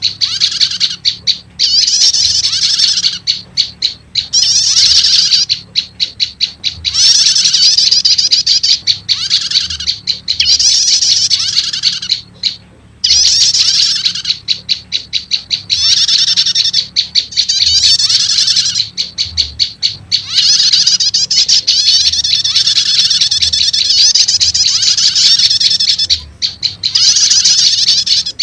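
Bird-lure recording of olive-backed tailorbird (prenjak lumut) calls, played to draw in wild tailorbirds. Loud, fast, high-pitched chattering trills come in phrases of a second or two, separated by runs of rapid ticking, with one brief break a little before halfway.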